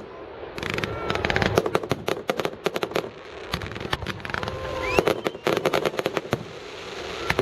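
Fireworks going off in quick succession: a dense run of sharp cracks and bangs, with a few short whistles gliding in pitch.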